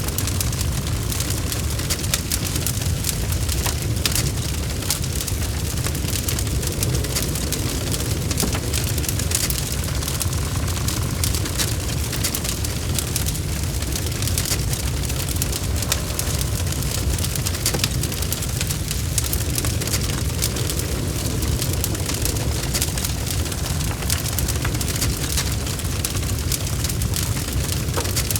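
Wood fire burning in a fireplace: a steady low rumble of the flames with dense, irregular crackling and popping of the burning logs.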